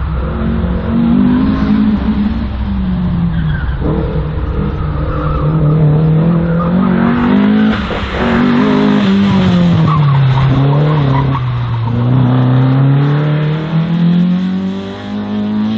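A slalom race car's engine revving up and down as it is driven hard through the course, its pitch rising and falling with each gear and turn. Its tyres squeal and scrub partway through.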